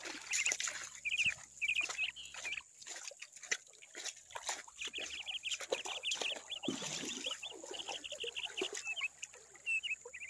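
A bird calling over and over in quick series of short, high chirps, one fast run of about ten notes in the middle. Under it come small splashes and handling noises as a small fish is lowered into the water.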